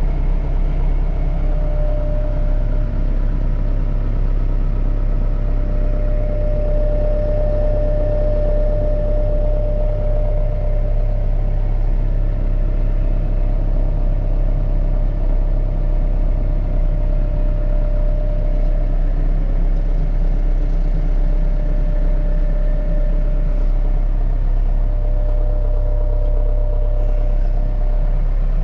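Gehl V400 skid steer's diesel engine running steadily at an even speed, a low rumble with a faint steady whine above it.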